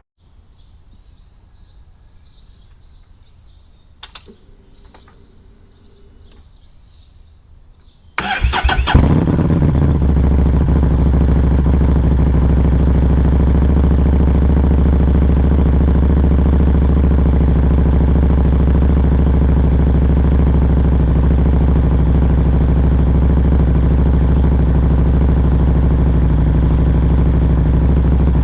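Faint chirping, then at about eight seconds a Harley-Davidson Street 500's V-twin is cranked and catches, settling into a steady idle. Heard up close at a Firebrand Loose Cannon slip-on muffler.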